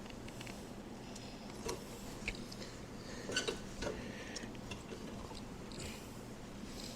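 Scattered light clicks and taps of hand tools and small metal parts being worked and handled in a car's engine bay, several in a quick cluster about halfway through, over a low steady hum.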